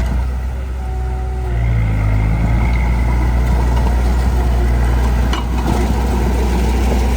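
Heavy diesel engine of earthmoving machinery running steadily, its pitch shifting briefly about one to two seconds in.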